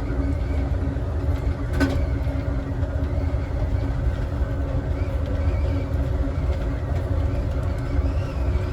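Passenger train car rolling along the track at speed: a steady, deep rumble of wheels on rail with a constant hum, and a single short click about two seconds in.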